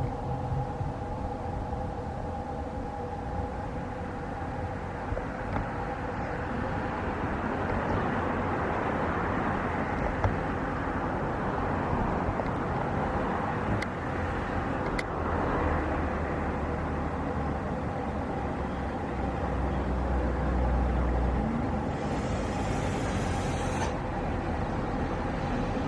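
Jet airliner engines running: a steady rushing noise that builds over several seconds, with a steady whine of two tones early on that fades.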